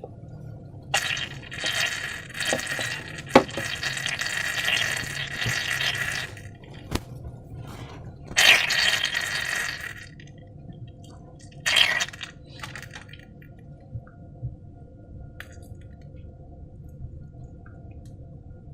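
Slime being handled and worked into balloons: wet squishing and sticky rubbing in three main bursts, the longest in the first half, with a few sharp clicks and taps between, then only faint handling noise.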